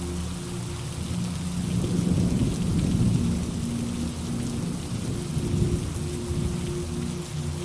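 Steady rain with a low roll of thunder that builds about a second and a half in, is loudest around two to three seconds in, and swells once more before fading under the rain.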